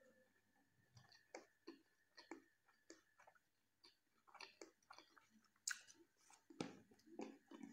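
Soft close-miked chewing of a mouthful of rice and curry: irregular wet mouth clicks and smacks. There is a sharper, louder cluster near the end, as fingers start working the rice on the plate.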